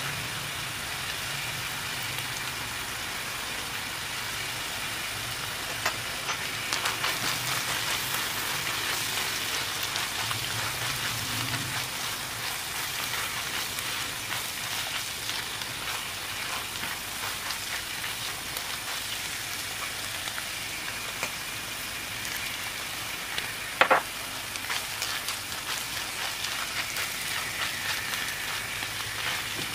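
Minced meat, onions and pine nuts sizzling in a frying pan while a silicone spatula stirs and scrapes through them, with small crackles throughout. One sharp tap stands out near the end.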